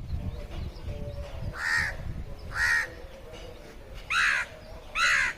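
Crow cawing: four harsh caws, roughly a second apart.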